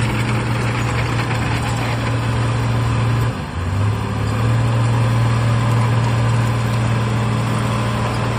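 Heavy diesel earthmoving machine engine running steadily with a strong low drone. A little over three seconds in it dips briefly, then rises back to its steady pitch.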